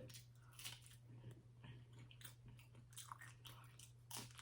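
Quiet chewing of crunchy food, faint crisp crackles and mouth clicks scattered throughout, over a steady low electrical hum.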